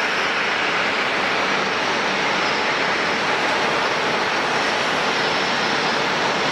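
Steady jet aircraft engine noise: an even rush that neither rises nor falls.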